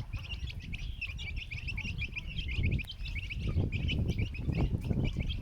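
A group of chicks peeping rapidly and continuously, many short falling peeps overlapping, as they find worms. Low rustling and knocks build up from about halfway through.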